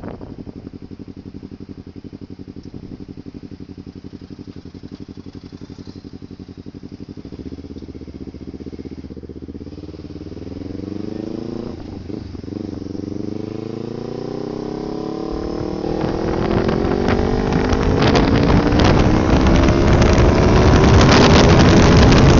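A vehicle engine runs steadily at a low speed, then pulls away and accelerates with a rising pitch, with what look like gear changes along the way. Wind noise on the microphone builds as the speed climbs and is loudest near the end.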